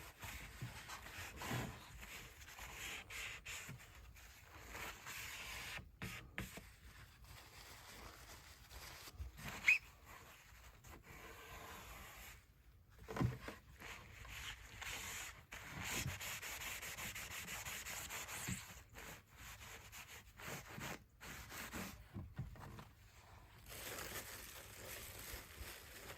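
Hand scraping and rubbing on a wooden kick drum shell, working softened glue residue off, in irregular strokes with a couple of short knocks partway through.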